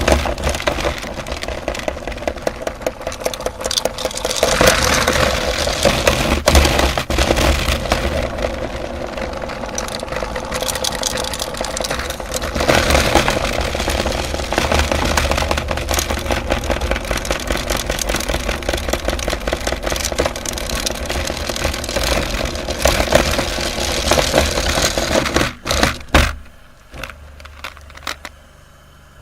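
Electric grinder running and crunching hard colourful candy: a steady motor with dense crackling and rattling, stopping about 26 seconds in and leaving only faint ticks.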